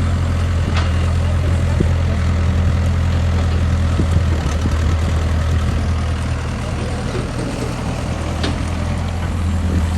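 Mini excavator's diesel engine running steadily with an even low hum. A few faint clicks and knocks sound over it.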